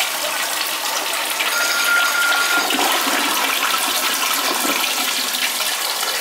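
Toilet flushing: water rushing out of the tank and swirling through the bowl, a good flush, with a thin whistle for about a second near the start.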